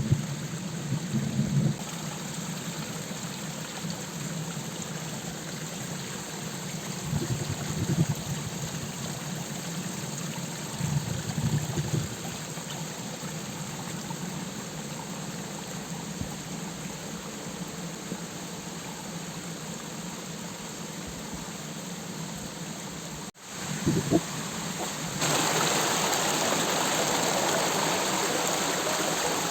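Steady rushing of river water flowing from a waterfall, with a few low rumbles in the first half. There is a short break just over 20 seconds in, after which the water sounds louder.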